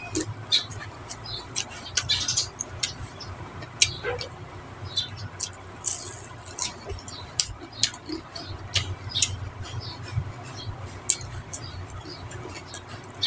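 Close-up eating sounds: chewing with irregular sharp crunches and mouth clicks from fried lumpiang shanghai (spring rolls) eaten by hand, over a low steady hum.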